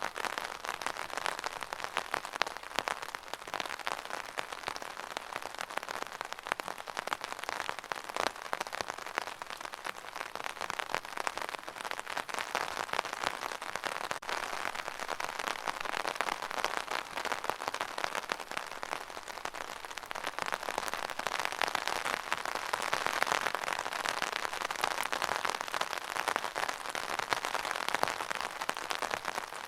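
Steady rain falling, a dense even spread of drops striking a surface, growing a little heavier about two-thirds of the way through.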